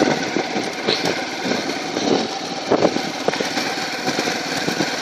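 Motorcycle engine running while riding, under a steady rush of noise across the range, with a few small knocks.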